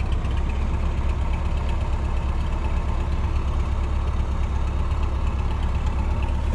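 A vehicle engine idling steadily, a deep even hum with a fast, regular ticking running through it.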